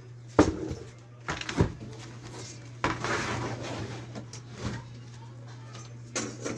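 A few hard knocks of objects being handled, with a scraping rush lasting about a second and a half near the middle, over a steady low hum.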